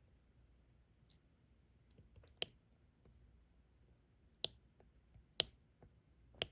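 Diamond painting stylus placing resin drills onto the sticky canvas: faint, sharp clicks, four louder ones spaced about a second apart in the second half, with softer taps between.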